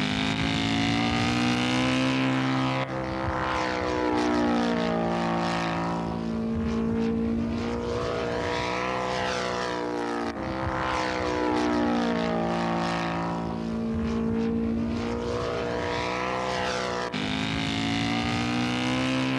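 Engines of radio-controlled scale model airplanes in flight, their propeller drone falling and rising in pitch as they fly past. Hard cuts about 3, 10 and 17 seconds in split it into separate flybys.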